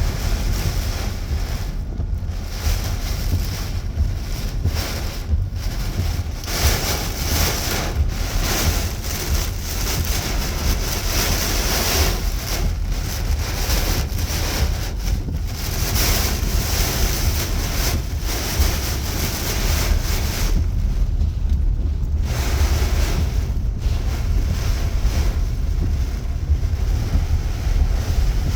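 Heavy rain pouring, its hiss swelling and easing every few seconds, with wind rumbling on the microphone throughout.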